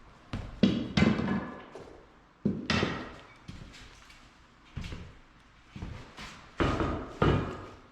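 Irregular knocks and clacks of tiles and tools being handled during tile setting, about nine hits, some with a short ringing tone.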